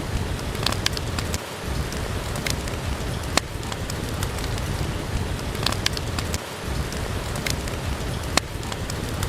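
Steady rain with a low rumble, and sharp pops from a crackling wood fire in a fireplace every second or so.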